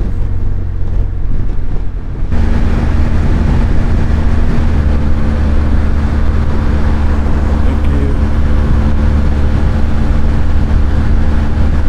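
BMW R1200GS Adventure's boxer-twin engine droning steadily at road speed, under a heavy rush of wind on the microphone. The sound steps up suddenly and gets louder about two seconds in.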